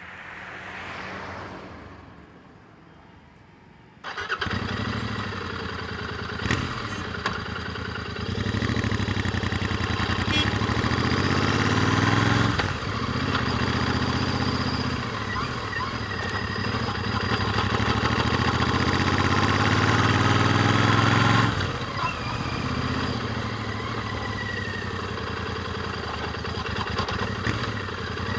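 Royal Enfield Interceptor 650's parallel-twin engine on its stock exhaust. It comes in suddenly about four seconds in, then climbs in pitch under acceleration, with sharp drops near the middle and about three-quarters through, like gear changes. A brief swelling whoosh comes before it.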